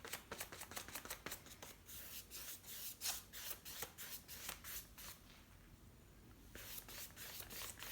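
Paintbrush brushing across damp paper in quick, repeated scratchy strokes while painting a sky, pausing briefly about five seconds in before the strokes resume.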